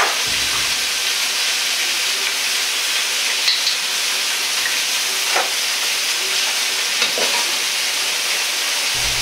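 Sliced pork sizzling in a hot wok, a steady frying hiss, with a few short clicks and scrapes of a metal ladle against the wok as it is stirred.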